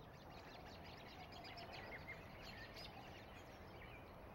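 A large flock of birds calling together: a faint, dense chatter of many short chirps overlapping.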